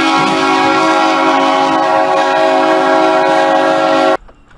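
Train horn sounding one long, loud blast of several notes at once, held steady, then cutting off suddenly about four seconds in.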